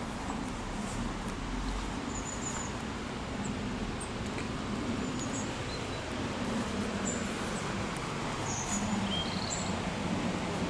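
Small birds giving short, high chirps, about ten scattered through, over a steady outdoor background hiss.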